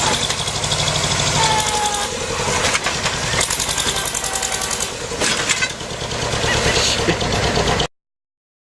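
Heavy vehicle engine running with a rapid pulsing rumble, with a few faint voice-like sounds over it; it cuts off suddenly near the end.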